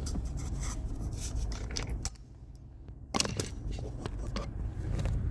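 Low vehicle rumble with a scatter of clicks and rattles, like keys or loose items jangling, and a brief quieter spell about two seconds in.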